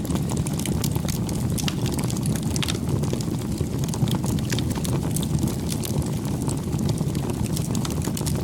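Wood campfire burning, a steady low rush of flame with frequent sharp crackles and pops.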